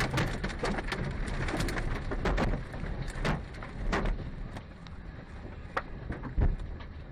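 Hailstones striking a hard surface in an irregular patter of sharp knocks over a low rumble, with a heavier thump about six seconds in.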